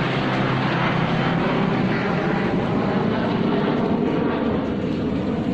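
Airplane flying overhead, its engine noise loud and steady.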